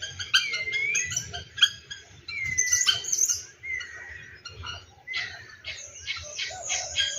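Saracura wood-rails calling: a long rhythmic series of repeated ringing notes that grows faster and denser about five seconds in.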